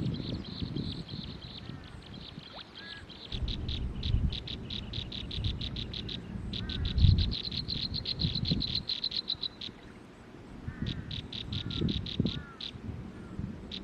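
Small birds giving rapid runs of high, evenly spaced chirps, several a second, stopping and starting, with a few softer lower chirps. Low thumps and rustling sound in between.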